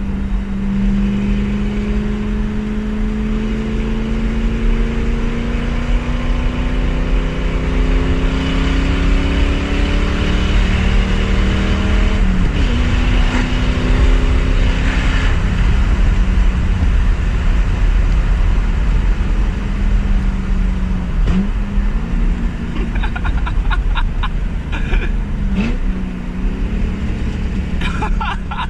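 Muffler-deleted 4.6-litre two-valve V8 of a New Edge Mustang GT under way. It pulls through a gear with the pitch slowly rising for about twelve seconds, changes gear, then settles into a steady cruise, with a couple of brief throttle changes near the end.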